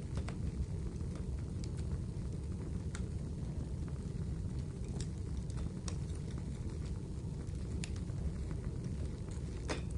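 Wood fire burning in a fireplace: a steady low rumble with scattered sharp crackles and pops, the loudest near the end.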